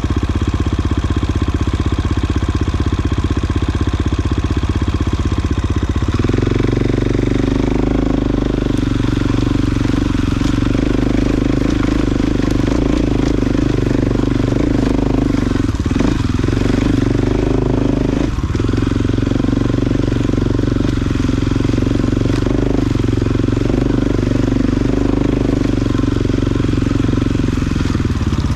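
Off-road vehicle's engine running at low speed over rough ground. Its note changes about six seconds in, with two brief dips later on.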